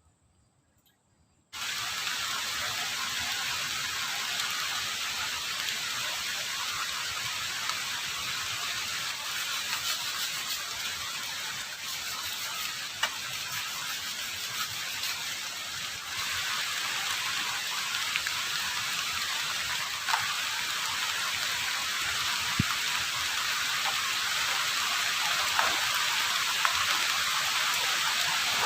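Heavy rain pouring steadily, starting abruptly about a second and a half in, with a few sharper drop hits now and then.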